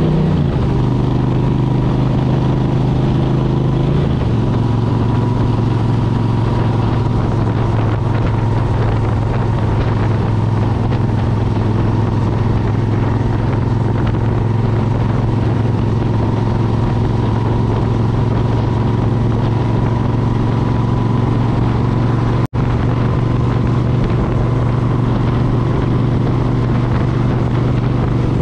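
2003 Suzuki Intruder 1400's 45-degree V-twin running through Vance & Hines Classic pipes while riding. The engine note steps down just after the start and again about four seconds in, then holds steady. The sound cuts out for an instant about twenty-two seconds in.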